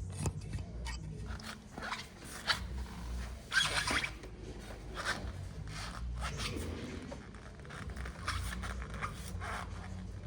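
Scattered clicks, scrapes and rustling from things being handled and moved, with a louder rustle about three and a half seconds in, over a steady low room hum.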